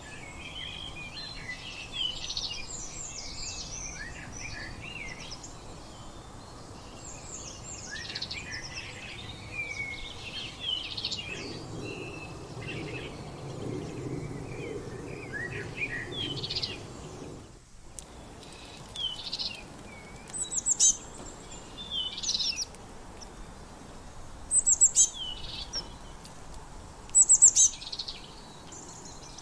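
Several small birds chirping and singing, with overlapping short calls and quick sweeping notes throughout. The loudest sharp, high chirps come in the second half, and a faint low rumble sits under the calls in the middle.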